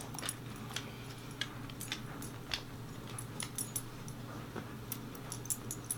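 A dog moving about, with light, irregular clicks and jingles over a faint steady hum.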